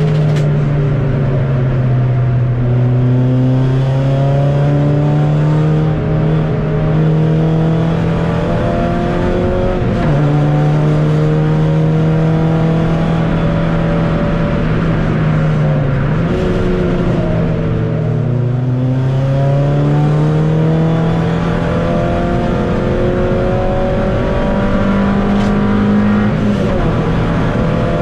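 Ford Puma Cup Car's four-cylinder engine heard from inside the cabin, running hard at a steady high pitch that drops and climbs again a few times as it changes gear, over steady tyre and road noise on a wet track.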